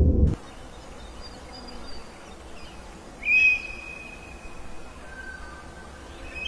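Bird whistling over a quiet outdoor background: a clear, steady note about three seconds in, held for nearly two seconds, then a lower, shorter note. A loud low rumble cuts off suddenly just at the start.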